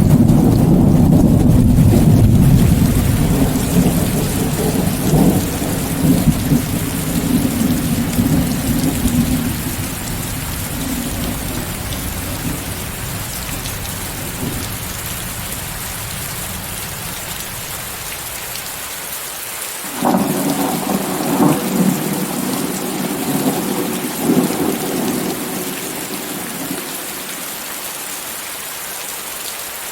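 Thunderstorm: steady heavy rain with a hiss throughout, a low roll of thunder at the start that dies away over about ten seconds, and a second thunderclap breaking in suddenly about two-thirds of the way through and rumbling for several seconds.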